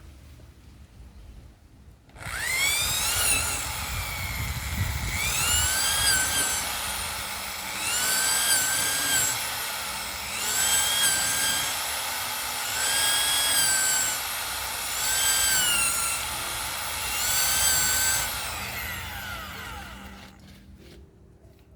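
An electric power tool's motor spins up about two seconds in and runs with a high whine whose pitch swells and dips about every two and a half seconds, then winds down near the end.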